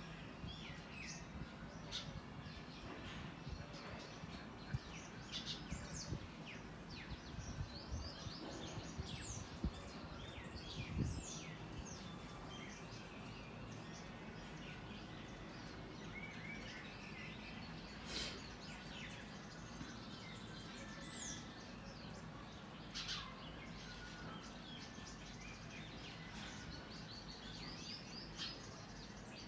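Birds chirping and calling, many short chirps and quick falling whistles scattered throughout, over steady outdoor background noise.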